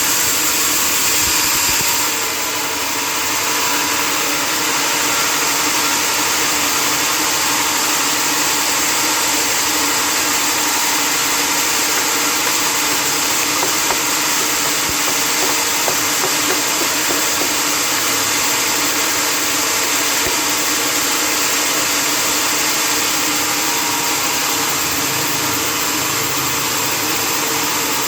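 Sawmill machinery running steadily: a loud, even mechanical whir with a few steady tones underneath, dipping slightly about two seconds in and then holding constant.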